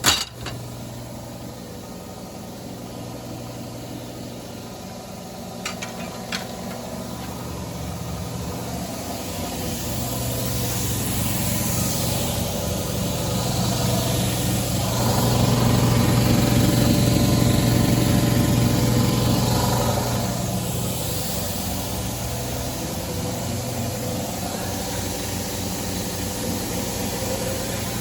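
Lawnmower engine running steadily, getting louder about ten seconds in and easing off a little after twenty seconds. A sharp click at the start and two faint clicks a few seconds later.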